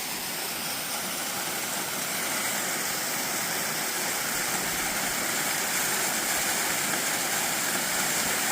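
Steady rush of water from a forest waterfall and creek: an even hiss with no distinct events, growing slightly louder.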